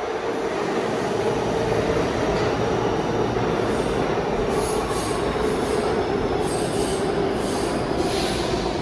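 New York City subway train moving through an underground station, a steady loud rumble of wheels on rail. Brief high-pitched wheel squeals come about halfway through and again near the end.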